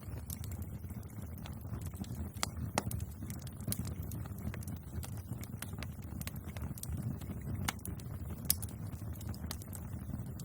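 Bonfire crackling: a steady low rumble of burning with frequent irregular snaps and pops, a few of them louder than the rest.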